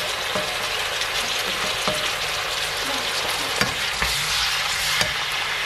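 Beef and pepper stir-fry sizzling steadily in a hot non-stick frying pan as oyster sauce is added and stirred through, with the spatula scraping and knocking against the pan a few times.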